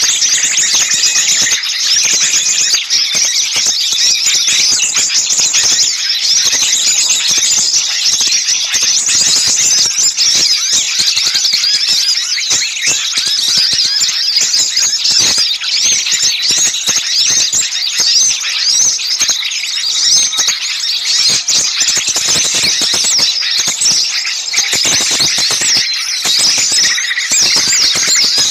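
A dense, continuous chorus of many small songbirds calling at once in agitated, high-pitched chatter and whistles, the noisy mixed-species calling used as a bird-luring recording.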